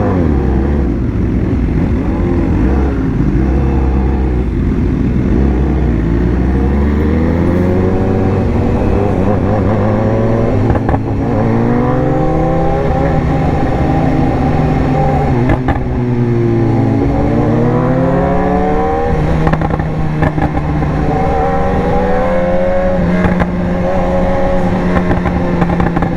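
BMW S1000R's inline-four engine heard from the rider's position, its pitch climbing steadily over the first ten seconds as it accelerates. It eases back around the middle, then picks up again and holds a steady higher pitch.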